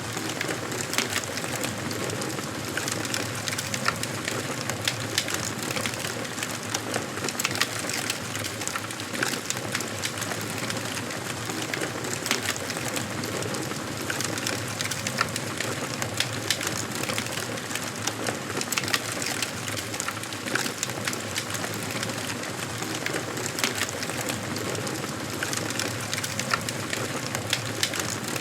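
Wood fire burning in a fireplace: a steady hiss with frequent small crackles and sharp pops.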